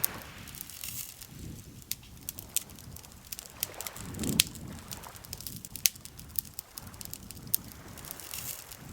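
Campfire crackling, with sharp pops at irregular intervals over a soft, steady rush, which swells briefly about four seconds in.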